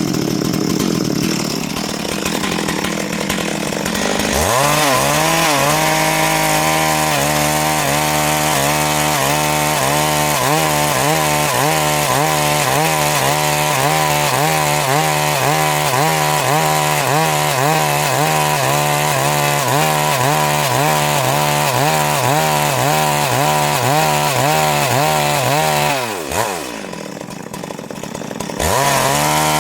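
Stihl MS 382 two-stroke chainsaw cutting Siris wood. It revs up a few seconds in and runs hard with a pitch that wavers about once a second. It drops away near the end, then revs up again just before the end.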